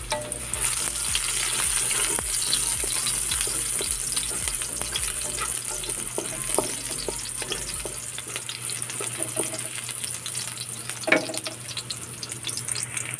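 Chopped onion and garlic sizzling in hot oil in a wok, with a wooden spatula scraping and tapping on the pan as it stirs.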